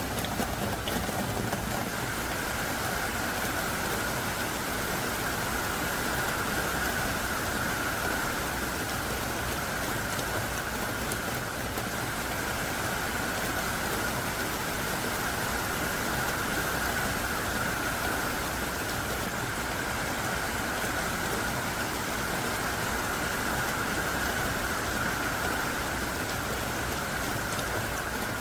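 Heavy, driving rain falling steadily, a dense even hiss of drops with a brighter steady band in the upper midrange.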